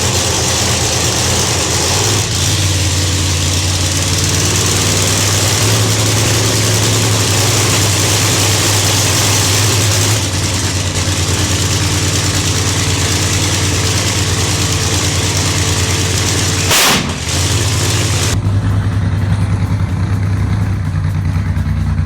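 Nitrous funny car's engine running loud and steady during throttle work. There is one sharp blast about seventeen seconds in, after which it settles to a duller note.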